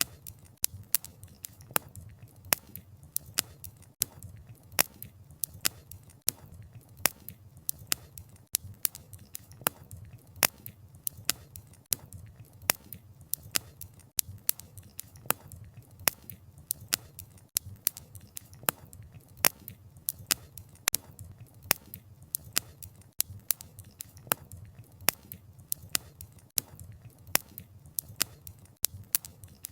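Wood fire crackling: logs popping and snapping in sharp, irregular clicks a few times a second, over a low steady rumble of the flames.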